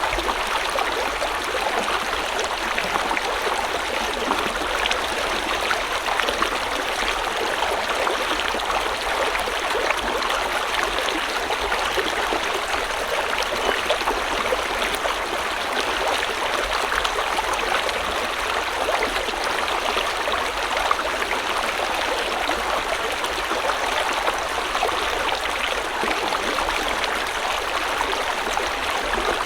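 A river's water flowing and splashing over rocks in a steady, unbroken rush.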